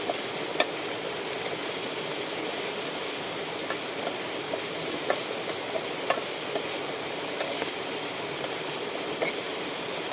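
Green beans and pork belly frying in curry paste and oil, a steady sizzle, with irregular clicks of a spatula against the pan as it is stirred.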